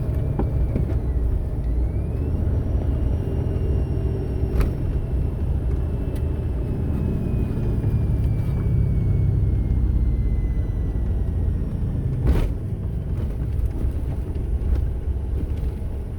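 Car cabin rumble from engine and road, with a thin high whine that rises about two seconds in and then slowly sinks in pitch. The whine follows engine rpm and comes from a device plugged into the cigarette lighter socket: it stops when that is unplugged. Two short knocks, near the middle and near the end.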